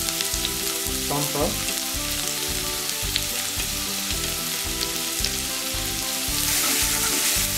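Chopped red onion, garlic, ginger and curry leaves sizzling in hot oil in a wok, as a wooden spatula scrapes them in from a plate and stirs, with a few light taps.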